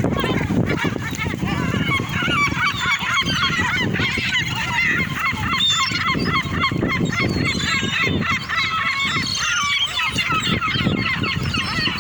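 A large flock of birds calling at once: many short, overlapping calls that never let up.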